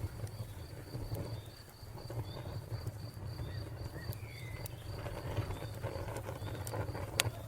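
Fire crackling with scattered sharp pops, one louder near the end, over a low rumble. A cricket chirps steadily at about four or five chirps a second, and a bird gives a short call about four seconds in.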